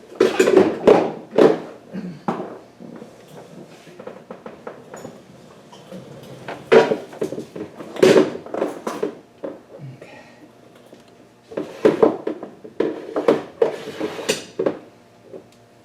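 Metal hand tools (wrenches, ratchet) clinking and clattering in several bursts of rummaging, with quieter gaps between.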